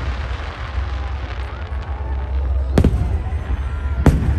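Fireworks display: two sharp bangs of bursting shells, the first about three seconds in and the second near the end, over a steady low rumble and crackle of further bursts.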